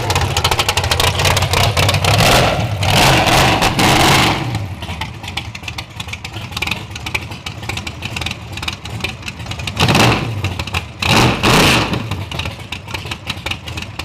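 Drag-race car engine running with open exhaust, idling in a rapid, uneven pulse and revved hard three times: once about two seconds in for a couple of seconds, then twice in quick succession near the end.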